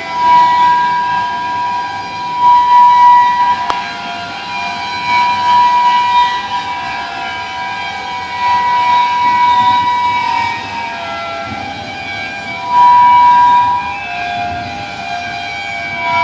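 Slow-moving freight train's wheels screeching: several steady high tones that swell and fade over and over. The owner puts this down to something wrong with the train, such as a stuck axle or wheel.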